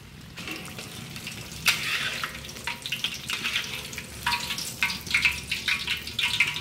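Wontons deep-frying in a wok of hot oil: sizzling full of quick crackles, growing louder about a second and a half in as a wire strainer scoops them up. Oil drips and streams from the strainer back into the wok.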